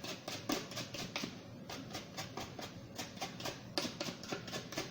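Toothbrush scrubbing dirt off a Roomba's dust-bin filter in quick repeated strokes, about four to five a second.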